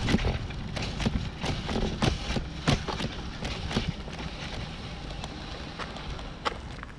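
Irregular knocks and crunches, a few a second, over a low rumble of wind on the microphone; the knocks thin out after about four seconds, leaving one sharp knock near the end.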